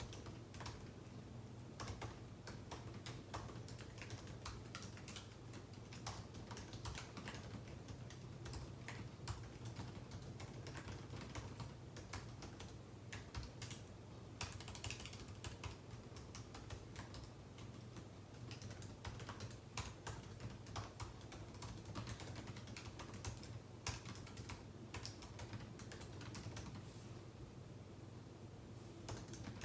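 Typing on a computer keyboard: irregular runs of keystrokes with short pauses between, over a steady low hum.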